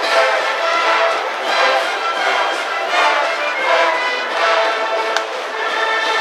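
High school brass band in the stands playing a baseball cheering tune, with a steady pulsing beat.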